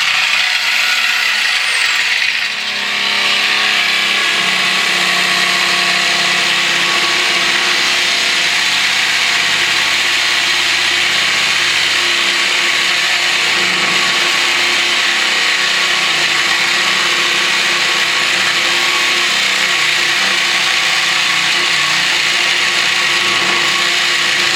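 Sawzall reciprocating saw cutting through a truck's exhaust pipe, running continuously with a brief dip about two and a half seconds in.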